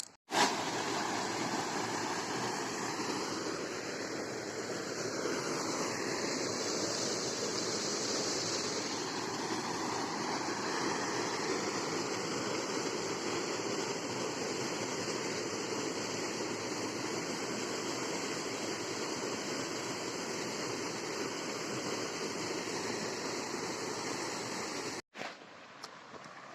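A steady rushing noise that starts suddenly and cuts off sharply shortly before the end.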